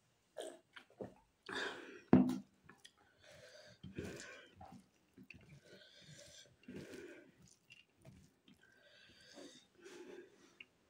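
Close-up mouth sounds of eating by hand: chewing and smacking of rice and curry in irregular bursts, with one sharp, loud click about two seconds in.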